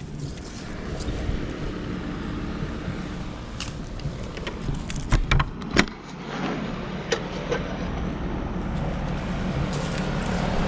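Rheem heat pump outdoor unit running in heat mode: a steady hum of compressor and fan that grows louder toward the end, with a few sharp knocks about five to six seconds in.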